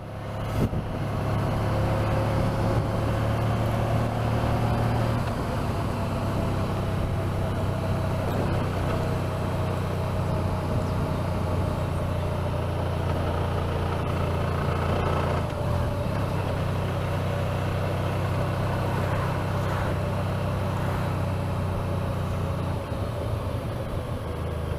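Honda motorcycle engine running steadily while riding at low speed, its pitch shifting slightly now and then.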